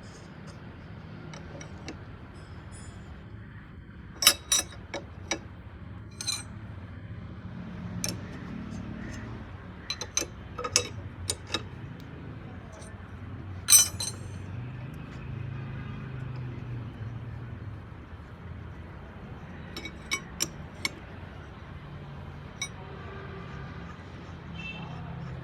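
Metal tools and parts clinking now and then during hand work on a tractor hydraulic cylinder, with about a dozen sharp clinks and the loudest near the start and the middle.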